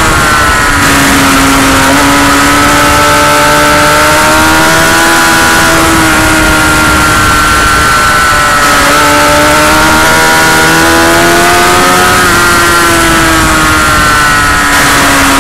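Motorcycle engine running hard at high revs, its pitch rising and falling slowly as it accelerates and eases off, with a heavy rush of wind noise.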